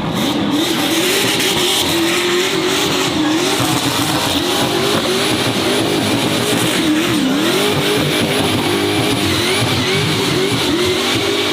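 Racing car engine at high revs, its pitch rising and falling over and over, with tyre squeal.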